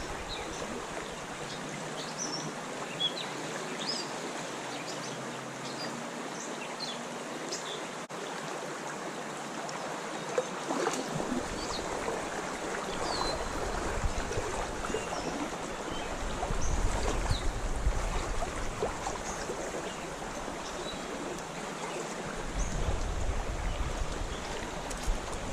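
Creek water flowing steadily, a continuous rushing hiss of a small stream, with short high chirps scattered through it.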